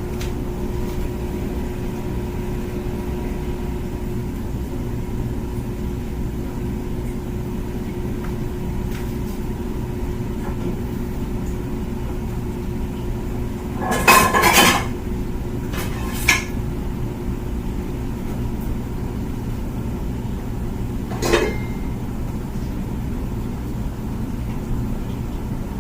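Comfee dishwasher running its wash cycle: a steady low rush of spraying water with a pump hum that stops about halfway through. Just past the middle there is a loud clatter of dishes or a pot, followed by a shorter knock and, later, a single sharp click.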